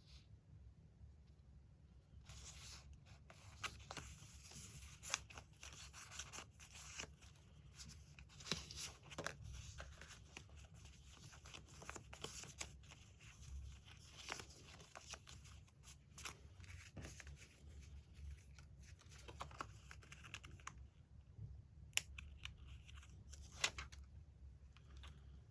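Magazine paper being torn and handled, a faint series of crackling rips and rustles, with a few sharp clicks near the end.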